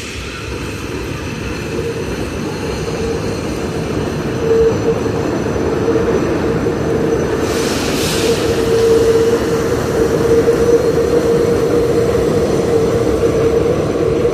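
Elevated subway train running past, its rumble growing steadily louder, with a steady whine throughout and a short hiss about eight seconds in.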